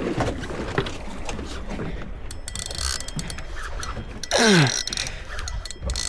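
Fishing reel drag slipping in short bursts of rapid clicking as a big fish takes line against the rod. Over a steady low boat rumble, two loud sounds drop steeply in pitch, one about four and a half seconds in and one at the very end.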